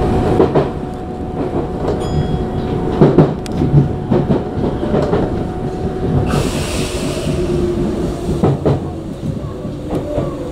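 Tokyu 9000 series electric train running into a station and slowing, wheels clacking over rail joints with a steady motor whine. A short hiss comes about six seconds in.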